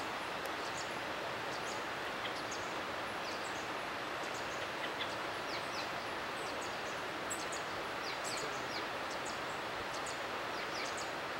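Many short, high-pitched bird chirps and calls, scattered and overlapping, over a steady even hiss of forest ambience.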